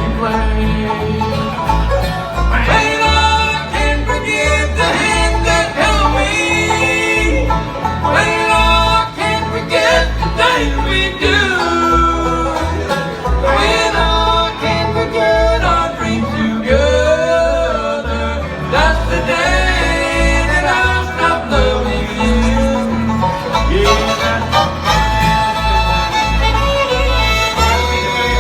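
Live bluegrass band playing an instrumental passage with no singing: fiddle, banjo and guitar over a steady bass beat about twice a second.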